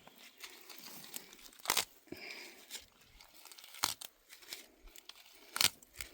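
Dry crinkling and crackling, like brittle material being handled or crushed, broken by three sharp snaps about two seconds apart.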